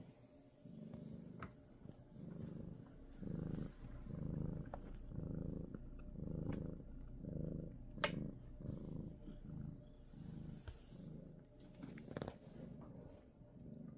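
Domestic cat purring close up, the purr swelling and fading in a steady rhythm with each breath. A sharp click about eight seconds in.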